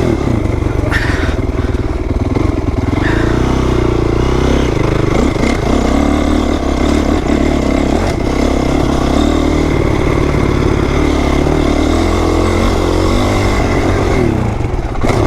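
2008 Honda CRF450R's single-cylinder four-stroke engine running hard as the bike is ridden around a dirt track, its pitch rising and falling with the throttle.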